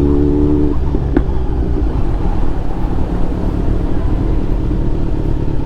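Motorcycle engine running, with a low wind rumble; its steady engine tone drops away about a second in, leaving mostly the rumble.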